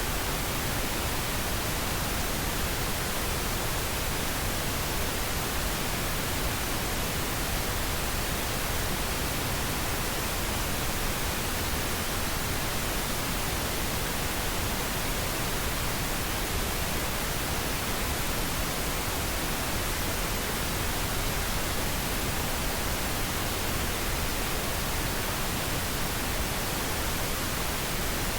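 Steady white noise, an even hiss across the whole range, unchanging throughout.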